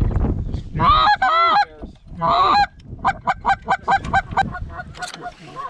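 Canada goose honking: two drawn-out, bending honks, then a quick run of short clucking honks, about six a second.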